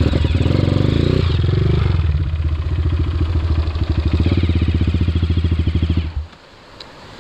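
Dirt-bike engine running just after being started, held at low revs. The revs drop after about a second, it runs on low with an even pulsing beat, then cuts out about six seconds in.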